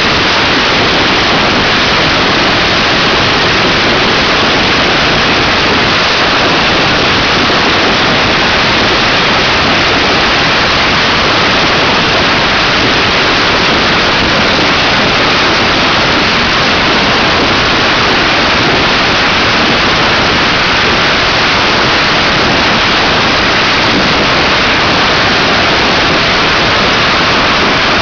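Strings of celebration firecrackers going off in a dense, unbroken crackle, the bangs so rapid they merge into one loud, steady din.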